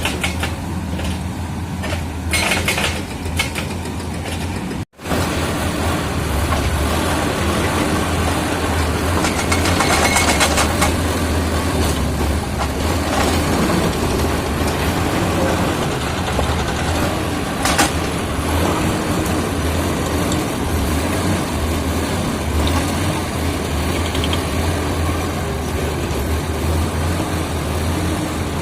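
Komatsu D85E-SS bulldozer's diesel engine running steadily, with short knocks in the first few seconds and one sharp knock later on. The sound breaks off for an instant about five seconds in.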